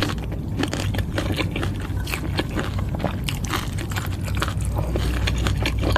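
Close-miked chewing and wet mouth sounds of someone eating a bowl of Thai boat noodles: many small, irregular smacks and clicks.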